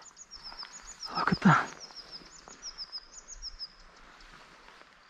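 A small bird singing a rapid run of high, thin notes that stops about three and a half seconds in, with one short, louder vocal sound falling in pitch about a second and a half in.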